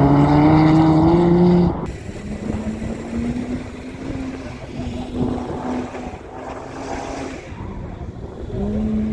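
Mazda RX-8 rotary engine through an HKS Hi Power catback exhaust, running under load with its note slowly rising in pitch. About two seconds in the sound drops sharply to a lower note, which then climbs steadily again with a few brief breaks.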